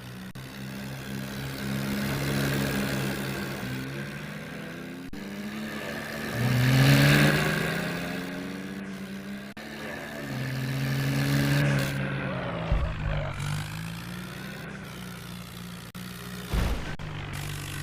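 Tractor engine revving up and easing off several times, loudest about seven seconds in.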